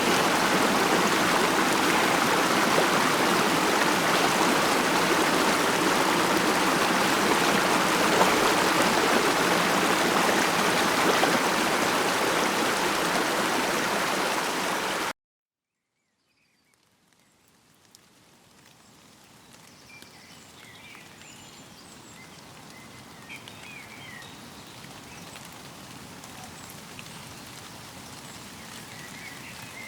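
Stream water rushing and burbling steadily until it cuts off suddenly about halfway through. After a second or so of silence, a much quieter outdoor ambience fades in, with faint scattered bird chirps.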